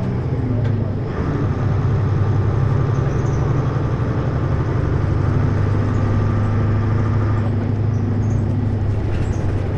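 Hino U-HT2MLAA city bus under way: a steady diesel drone, with a thin high whine over it from about a second in until near the end. The bus has a tendency toward abnormal noise, which the owner likens to the sound of a sister bus near the end of its service life.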